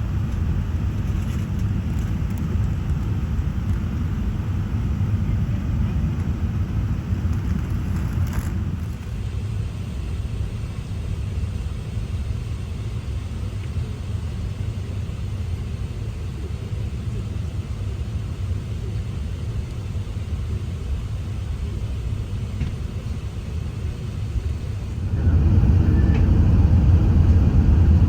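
Steady low rumble of an Airbus A380's engines and airflow heard inside the cabin, stepping up suddenly and getting louder about three seconds before the end.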